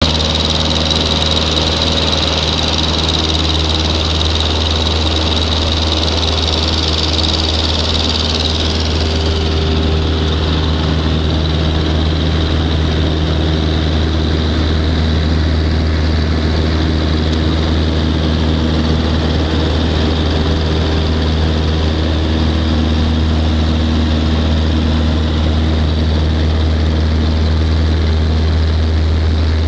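Aeronca Champ light airplane's engine and propeller running steadily in flight, with a strong low hum. A high, thin tone over it fades away about nine seconds in.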